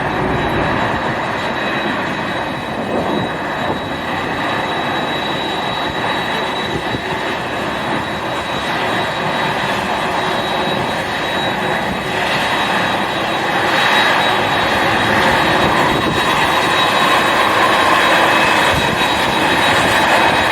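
Jet airliner's engines running, a steady loud rush with a thin high whine over it, growing a little louder about two-thirds of the way through.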